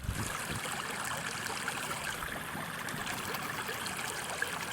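Water rushing and trickling steadily as it pours over the Dreimühlen waterfall into the Ahbach.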